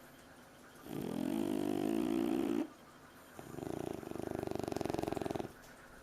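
French bulldog snoring in its sleep: two long snores about a second apart, the second with a fast fluttering rattle. Loud snoring like this is typical of the breed's short-nosed, narrow airway.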